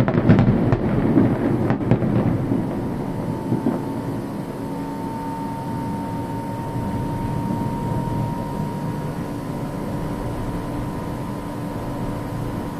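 Fireworks bursting, with crackle and rolling, thunder-like rumble during the first few seconds, dying down into a steady low rumble with a faint steady tone.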